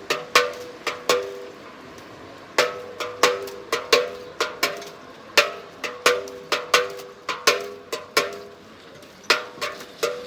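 Belfry bells struck in quick, irregular peals, each stroke ringing briefly at two close pitches. There is a pause of about a second a couple of seconds in and another near the end.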